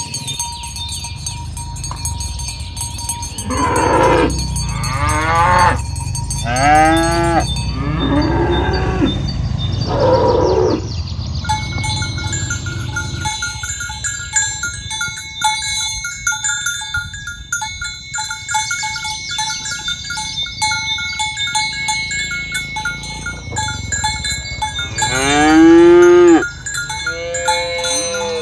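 A herd of cattle mooing, with about four long moos that fall in pitch in the first half and a loud one near the end. From about twelve seconds in, bells ring steadily with a jangling flicker.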